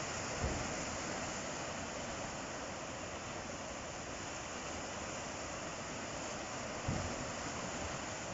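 Ocean surf washing on the shore, a steady rushing hiss, with two brief low thuds, one about half a second in and one near the end.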